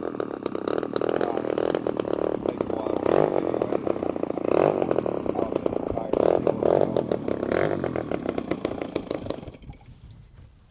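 65cc gas engine of a 1:5 scale RC P-51 Mustang running hard, a rapid buzzing rattle that swells several times and then fades away near the end.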